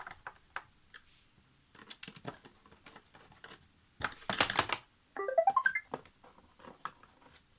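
Plastic clicks and rattles of a Roomba 696's parts being handled and fitted back together during reassembly, with a louder cluster of clatter about four seconds in. Just after five seconds, a short run of tones rises in steps.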